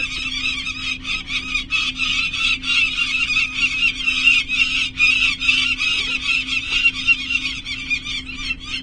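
Peregrine falcon giving a continuous run of rapid, harsh kak-kak-kak alarm calls, about five a second, the falcon's defensive cry at intruders near the nest. A steady low hum runs beneath.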